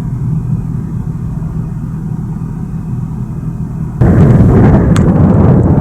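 Steady low rumble of a running vehicle, then about four seconds in a sudden jump to loud wind buffeting the microphone.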